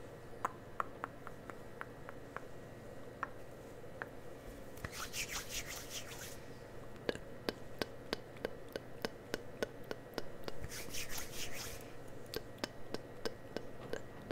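Close-miked ASMR handling of cosmetic products and tools: light taps and clicks throughout, with two bursts of fast, high rasping hiss, each about a second long, about five seconds in and about eleven seconds in.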